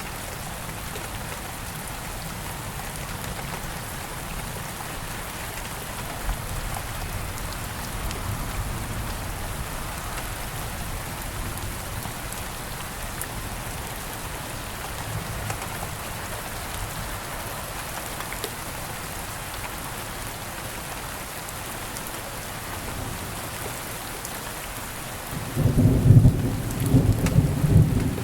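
Steady rain falling, an even hiss throughout, with a loud low rumble of thunder lasting about two and a half seconds near the end.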